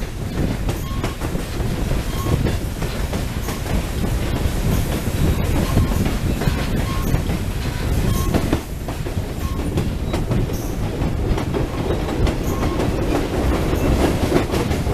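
A train rolling along the track: a steady rumble with the clickety-clack of wheels over rail joints. A faint short tone repeats about once a second throughout.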